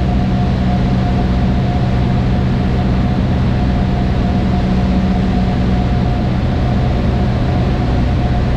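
Cessna 152's four-cylinder Lycoming engine and propeller running steadily, heard inside the small cockpit as a loud, even drone with a few steady low hums and a rushing hiss.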